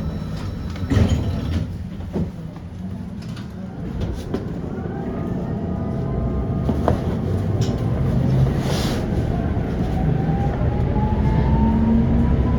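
Prague tram running on its rails, with a steady low rumble and a few sharp knocks early on. In the second half the electric traction motors give a rising whine as the tram picks up speed.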